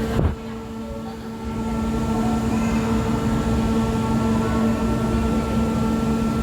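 Steady electrical hum and low rumble aboard the Ocean Express funicular train, with a short knock at the very start and the sound growing louder about a second and a half in.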